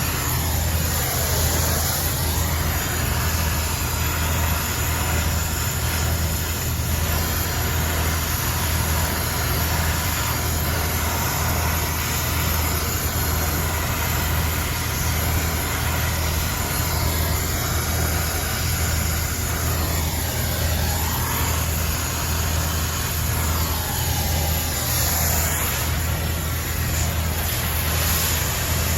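Steady low mechanical hum with a constant rushing noise over it.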